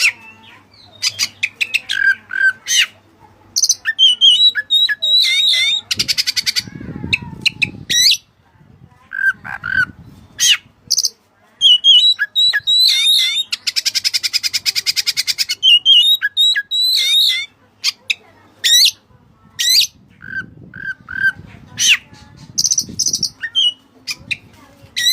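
Oriental magpie-robin (kacer) in full song: quick varied phrases of whistles, chirps and harsh squawks, with a long, rapid, buzzing rattle about six seconds in and another about thirteen seconds in.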